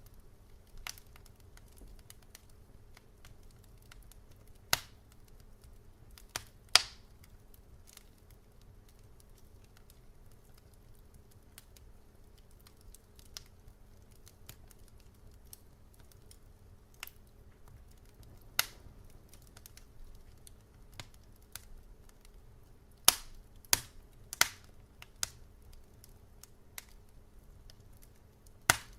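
Wood fire crackling: scattered sharp pops, a few loud ones clustered about five to seven seconds in and again about twenty-three to twenty-five seconds in, over a low steady rumble.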